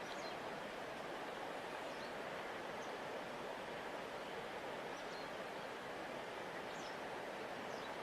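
Large river flowing, a steady, even rush of water.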